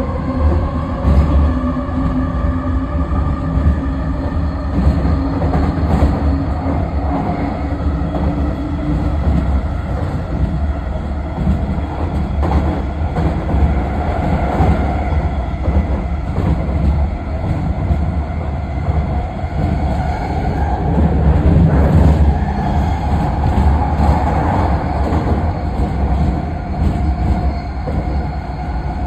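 Vancouver SkyTrain car running along its elevated guideway, heard from inside the car: a continuous low rumble of wheels on rail with thin whines that drift slowly in pitch over it.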